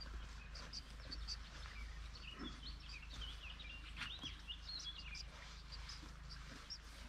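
Small birds chirping and singing in quick, high, twittering notes, densest in the middle, over a faint steady low rumble.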